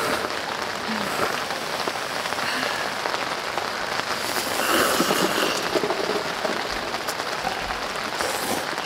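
Sudden rain shower falling steadily on a camping tent, a dense hiss of many individual drops.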